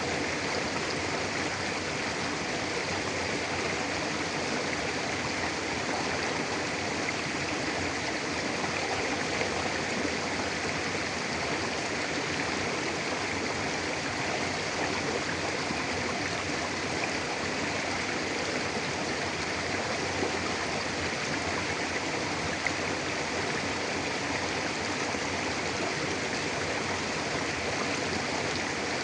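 Mountain river flowing steadily over rocks: a continuous, even rush of water.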